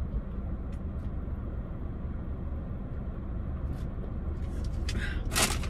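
Steady low rumble of a car idling, heard from inside the cabin. Near the end comes a short crinkling rustle, like a paper bag being handled.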